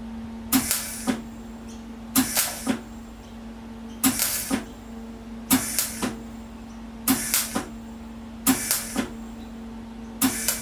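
Gas-shielded MIG welder stitch-welding a car's rusted lower radiator support in short pulses: seven bursts of arc crackle, each about half a second long, come about every second and a half over a steady hum.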